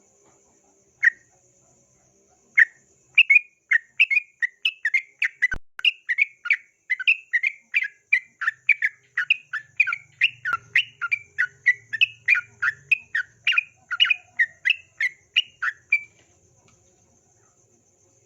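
Yellow-vented bulbul (trucukan) singing: two single notes, then a long rapid run of short chattering notes, about three a second, alternating higher and lower, which stops about two seconds before the end. A faint steady high insect trill runs underneath.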